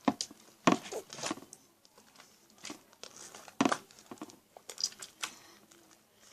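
Sticky homemade slime being kneaded and pulled in the hands, making irregular short sticky crackles and clicks.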